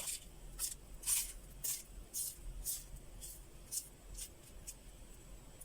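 Small fire smouldering and crackling faintly, with short sharp snaps at irregular intervals, about two a second.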